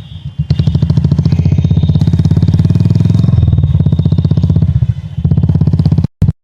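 Royal Enfield Classic 350's air-cooled single-cylinder engine running under way, its exhaust giving an even, steady beat. The level dips briefly at the start, and the sound cuts out twice for a moment near the end.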